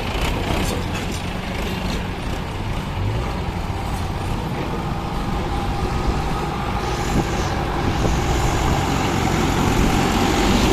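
Swaraj 843XM tractor's diesel engine running steadily under work, getting a little louder near the end.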